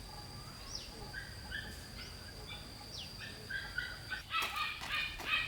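Farm ambience: a steady high-pitched insect drone with scattered short bird chirps. About four seconds in, a flurry of repeated calls from domestic fowl such as geese or ducks breaks in and grows louder.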